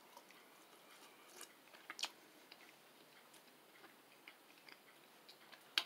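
A person quietly chewing a soft breaded chicken fry: faint mouth clicks over near silence, with a sharper click near the end.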